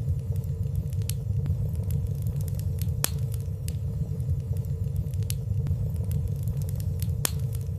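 Wood fire burning in a fireplace: a steady low rumble of the flames with sparse light crackles, two sharper ones about three seconds in and near the end.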